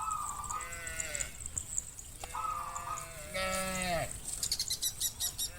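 Cattle calling twice, high-pitched: each call starts on a held high note and then drops into a falling bawl. A rapid run of ticks comes near the end.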